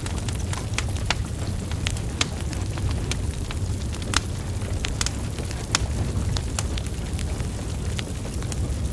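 Wood fire burning: a steady low rumble of flames with irregular sharp crackles and pops from the logs, a couple of louder pops about four and six seconds in.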